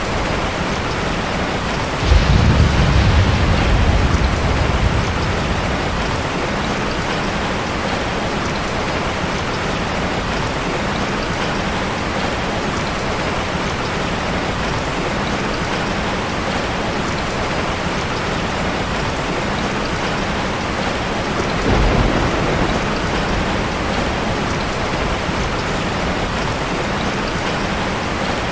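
Heavy rain falling steadily. About two seconds in, a loud crack of thunder rumbles low for a few seconds, and a weaker rumble of thunder comes near the end.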